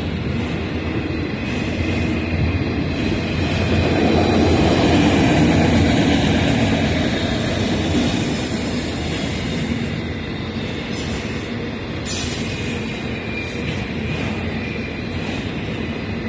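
Freight train of enclosed autorack car-carrier cars rolling past at speed: a steady rumble of steel wheels on rail with a thin, steady high tone running over it, swelling louder about four to seven seconds in.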